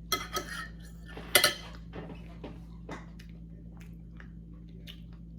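Cutlery clinking and scraping against a dish during a meal of lasagna: a few sharp clicks at the start, the loudest about a second and a half in, then fainter ticks spaced out over the rest of the moment.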